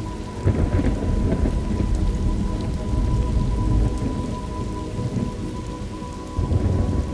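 Thunderstorm ambience: steady rain, with a roll of thunder that rumbles up about half a second in and fades over the next few seconds, then another rumble near the end.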